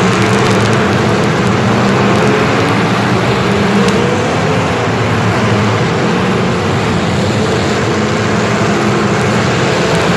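An engine running steadily at an even pitch, with a dense noise over it.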